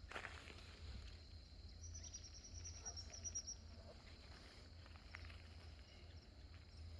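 Very quiet: a bird gives a high, fast trill of rapidly repeated notes about two seconds in, lasting about a second and a half, over a faint steady high hum.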